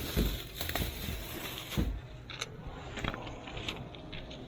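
Items being handled and bagged: two dull thumps about a second and a half apart, with light rustling and scattered clicks.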